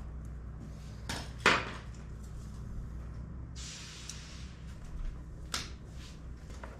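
A few sharp knocks and clanks from a chain fall and a heavy part being handled on a work table, the loudest about a second and a half in, with a short scraping rush near the middle. A steady low hum runs underneath.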